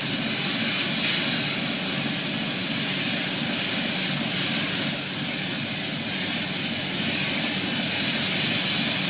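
Steady hiss of steam escaping from an LNER Q6 0-8-0 steam locomotive under test, with slight swells in level. Steam is blowing from the wrong place at the right-hand front cylinder cock, a fault still not fully sorted.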